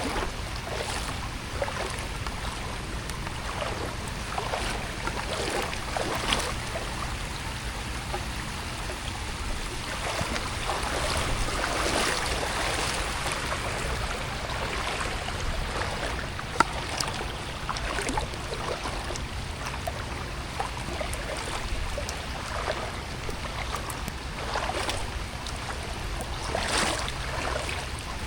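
Steady rain with running water, broken by irregular small splashes.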